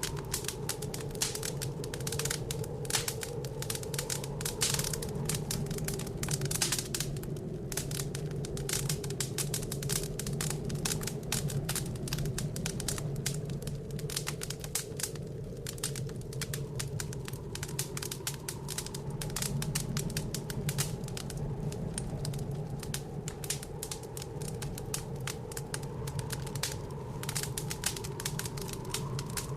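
Wood fire in a fireplace crackling with a constant patter of small pops and snaps, over a steady low blizzard wind outside the window.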